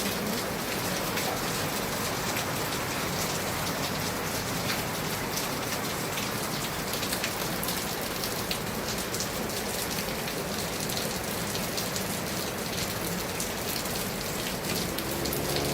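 Steady heavy rain falling and pattering on surfaces, an even hiss with many small drop impacts.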